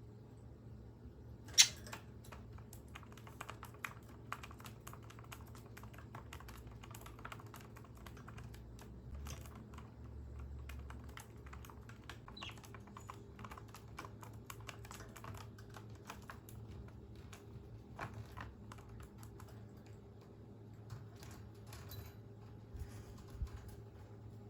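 Budgerigar clicking and tapping about its cage in a rapid, irregular patter of small sharp clicks, with one much louder click about a second and a half in.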